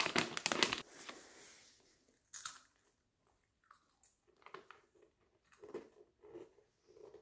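Crunchy pretzel being eaten: a louder crackling burst right at the start, then a bite and quiet crunching as it is chewed, in short irregular crunches.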